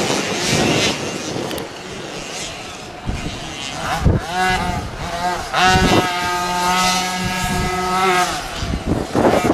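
Motocross bike engines revving, the pitch rising and falling with the throttle and held high for a couple of seconds in the middle.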